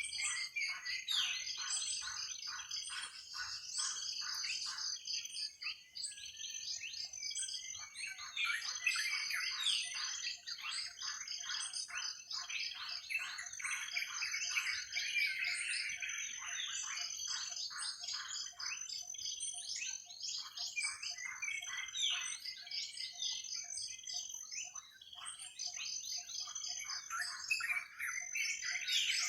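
Forest bird chorus: many birds chirping and trilling at once, with a steady high-pitched trill running underneath and a call that pulses a few times a second, fading out and coming back several times.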